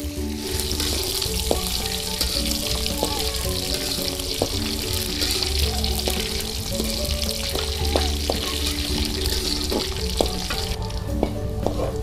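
Red and green chillies frying in hot oil in a metal wok, a steady sizzle with the spatula now and then clinking and scraping against the wok. The sizzle eases near the end.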